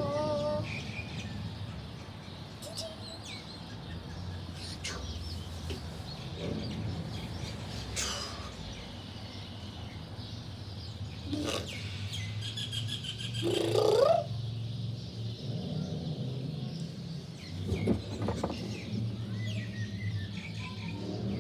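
Birds chirping in short calls over a steady low background hum, with a brief, louder rising sound about fourteen seconds in.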